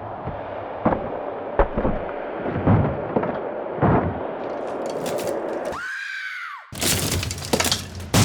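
Heavy thuds against a door, four blows spread over a few seconds above a low rumble, then a brief falling whine and a loud burst of cracking and breaking, as of the door being battered.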